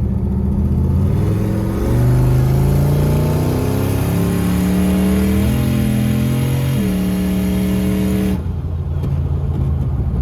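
Turbocharged LS V8 truck engine accelerating, its pitch climbing steadily for about five seconds. The note steps twice, then holds steady. A rushing hiss over the engine cuts off sharply about eight seconds in.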